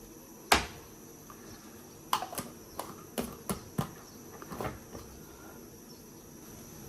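Sharp knocks and clicks of kitchen items being handled and set down: a loud knock about half a second in, then a quick run of smaller clicks and taps between two and five seconds in, over a faint steady high-pitched hum.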